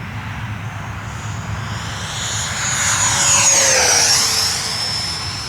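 RC model F-16 jet making a high-speed pass: the whine of its fan swells, is loudest about three and a half seconds in, and drops in pitch as it goes by.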